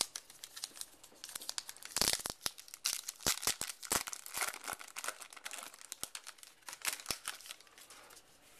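A baseball card pack's wrapper being torn open and crinkled, a dense run of crackles and sharp clicks that thins out near the end.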